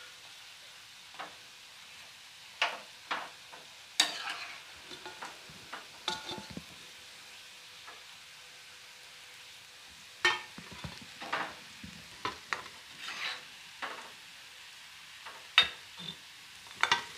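Gulab jamun dumplings frying in hot oil with a faint steady sizzle, while a steel ladle turns them and lifts them out, clinking and scraping against the pan and a steel plate several times.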